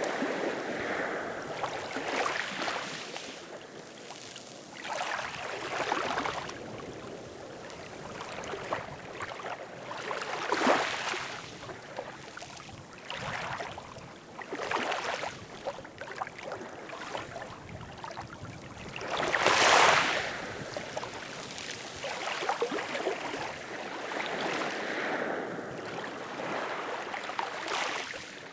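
Ocean waves washing in on a shore, a surge of rushing water every few seconds, the biggest one about twenty seconds in.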